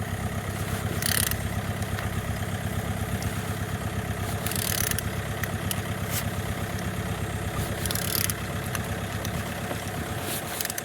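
Z13DTJ 1.3 CDTI four-cylinder diesel engine idling steadily with an even beat, with a few brief hissing bursts about 1, 4.5 and 8 seconds in. It runs smoothly, which the seller takes as a sign that it turns well with full compression.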